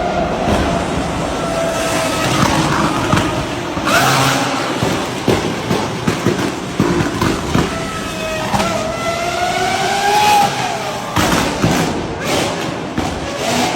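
Performance car engine revving, its pitch rising and falling several times as the revs climb and drop. Near the end come a run of sharp exhaust cracks and pops.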